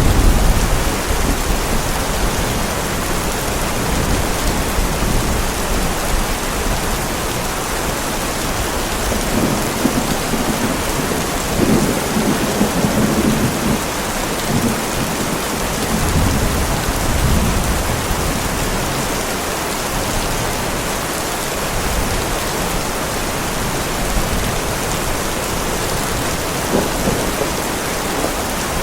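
Heavy rain pouring steadily with rolling thunder: a loud crack right at the start, then low rumbles swelling under the rain about ten seconds in and again a few seconds later.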